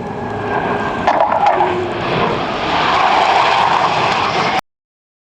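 Jet noise from Blue Angels twin-engine F/A-18 Hornets flying past, a loud rush that grows louder, then cuts off abruptly to dead silence about four and a half seconds in.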